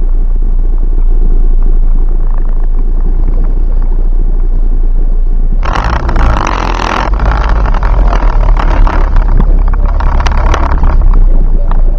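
Low, steady in-cabin rumble of a turbocharged Ford Focus ZX3 idling and creeping forward in the autocross staging queue. About six seconds in, a loud rushing noise cuts in and carries on unevenly for several seconds.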